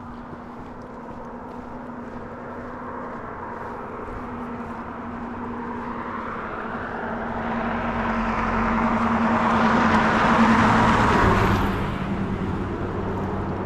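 A car passing by on a paved road: tyre and engine noise that swell for several seconds, peak, then drop away near the end.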